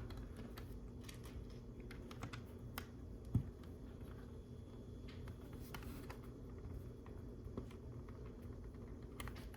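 Faint, scattered light clicks and taps of small plastic LEGO pieces being handled and fitted, with one sharper click about three and a half seconds in, over a low steady room hum.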